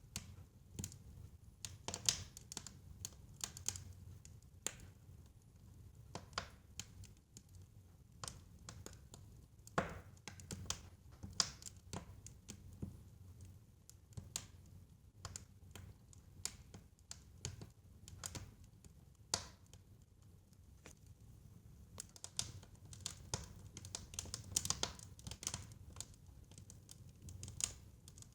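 Fire crackling in a fireplace: irregular sharp snaps and pops, some in quick clusters, over a steady low rumble of the flames.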